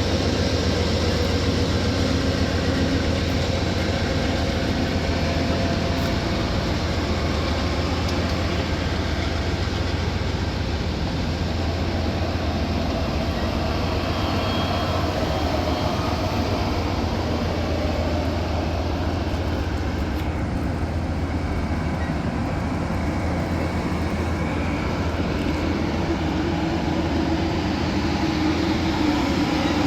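Amtrak passenger train rolling steadily past at low speed as it departs: continuous wheel-on-rail rumble with a low hum.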